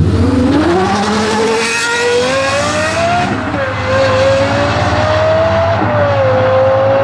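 High-performance car engine accelerating hard: its pitch climbs, drops suddenly at an upshift about three seconds in, climbs again, and drops at a second upshift near six seconds.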